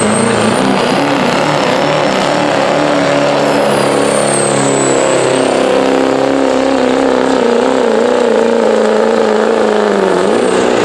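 Diesel pickup truck engine running hard at high, nearly constant revs under heavy load while pulling a sled, with a high turbocharger whistle that rises, then dips in pitch around the middle.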